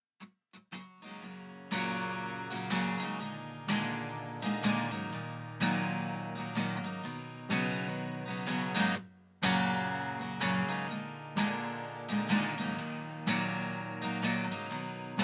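Acoustic guitar strummed in a steady rhythm as an instrumental song intro, opening with a few soft taps and breaking off briefly about nine seconds in before the strumming resumes.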